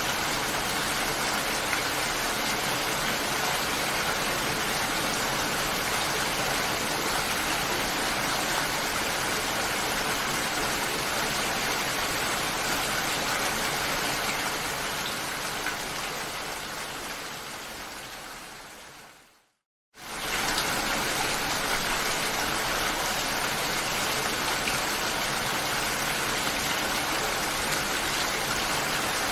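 Steady rain, an even hiss of falling water. About two-thirds of the way through it fades out over several seconds to a moment of silence, then cuts straight back in at full level.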